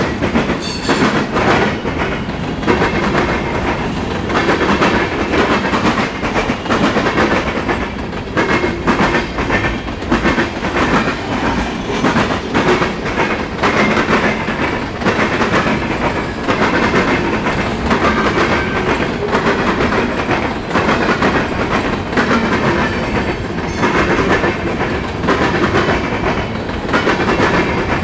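Freight cars of a passing mixed freight train rolling by, the wheels clattering in a constant run of clicks and rattles over the rail joints, with the rumble and squeal-free hiss of steel wheels on rail.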